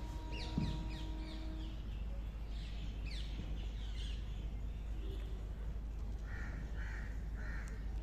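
Birds calling: a run of quick, high, falling chirps in the first half, then three harsher calls in a row about six to seven and a half seconds in.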